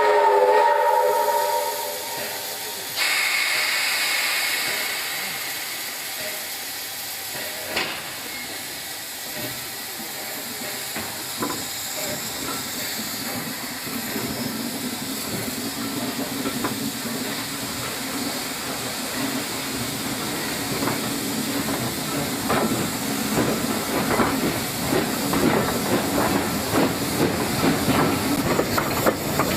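Steam locomotive's whistle sounds for the first few seconds, then a loud hiss of steam starts about three seconds in. A low rumble with a rhythmic clatter builds and grows louder toward the end as the train gets moving.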